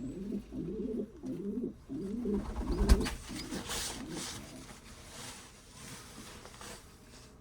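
Homing pigeon cooing in repeated low rolling phrases for about the first three seconds, then a sharp knock just before three seconds in, followed by faint scuffing.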